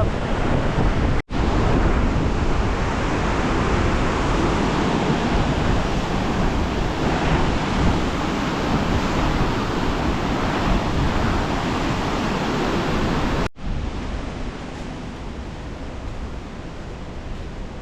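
Fast-flowing water rushing with a loud, steady roar. It breaks off abruptly twice, and after the second break it continues somewhat quieter.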